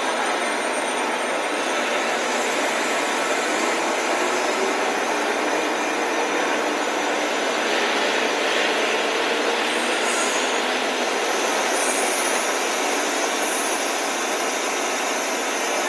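Electric commuter train running along a station platform: a steady rush and rumble of wheels on rails, with a few faint high squeaks near the end.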